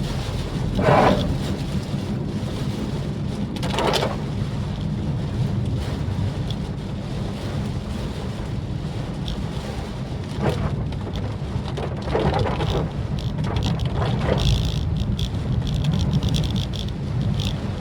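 Cabin sound of a Maruti Suzuki Swift Dzire driving in the rain: a steady low engine and road drone under a wash of rain and wet-tyre noise. Several brief swishes break through, the loudest about a second in.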